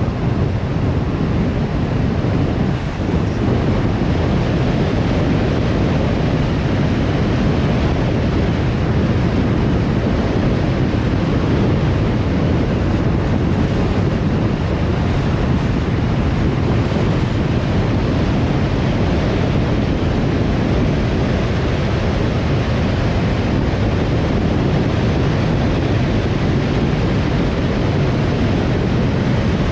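Steady wind and road noise of a car driving, with no distinct events.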